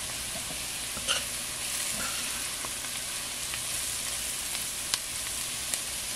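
Sliced onion, garlic and pimento peppers frying in oil with turmeric in a heavy cast iron pot on low heat: a steady sizzle, with a metal slotted spoon stirring and a few clicks as it knocks against the pot.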